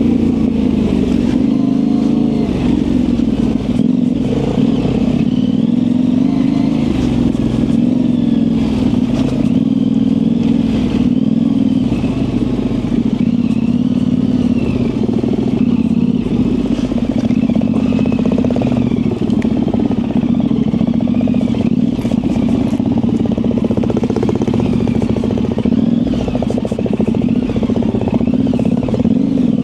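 Yamaha Ténéré 700's parallel-twin engine, fitted with an aftermarket high exhaust, running under load on off-road single track, its pitch rising and falling as the throttle is worked. Light clattering from the bike runs under it.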